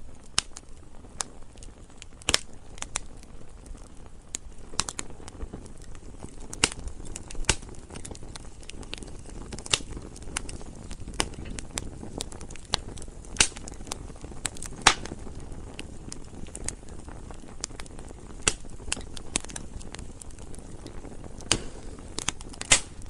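Campfire burning with irregular sharp pops and crackles, a few louder snaps standing out, over a steady low rush of the flames.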